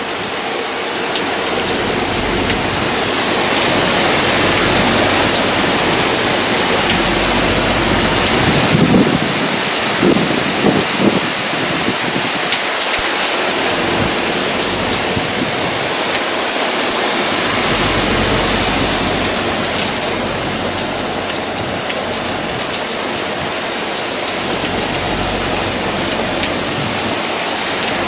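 Heavy tropical-storm rain pouring down with gusts of wind, the rush swelling louder about four seconds in and again around eighteen seconds, with a few low rumbles in between.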